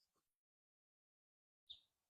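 Near silence: the sound drops out completely for over a second, then a single brief, faint high chirp comes near the end.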